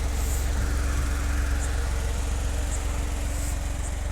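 Mini truck's engine running with a steady low hum.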